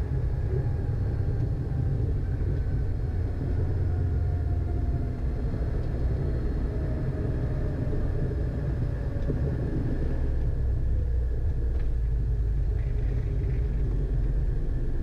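Cockpit noise of a Beechcraft Premier I twin-turbofan business jet on its landing rollout: a steady low rumble from the runway and engines, with a faint tone that slowly falls in pitch as the jet slows.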